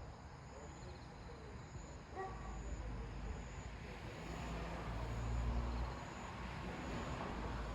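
A low engine rumble of a passing vehicle swells from about two seconds in, is loudest near the middle, then eases off. Over it, an insect chirps high and even, about once a second.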